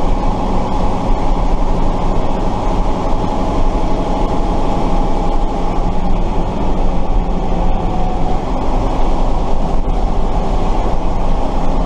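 Tatra 138 truck's air-cooled V8 diesel engine running steadily under way, heard from inside the cab.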